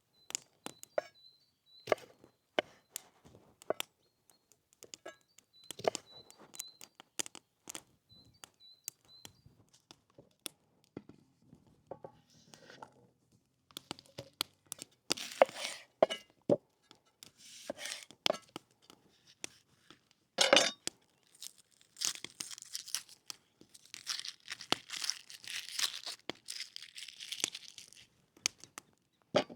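Food being prepared by hand: scattered sharp clicks and knocks, then stretches of rustling and tearing that are loudest in the last third. A faint, high chirp repeats through the first third.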